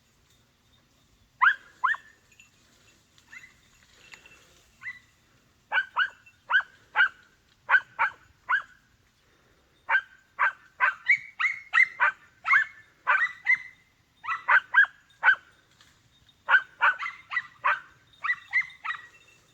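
Podenco hound puppies giving tongue: short, high-pitched yelping barks, a few at first, then coming quickly and overlapping from about halfway in. This is the hunting bay (latido) of young hounds working a rabbit.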